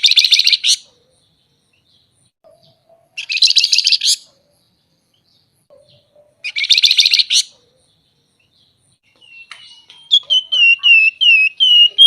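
A flamboyan songbird singing: three short, dense, buzzy chattering bursts about three seconds apart, then, near the end, a quick run of repeated down-slurred whistled notes.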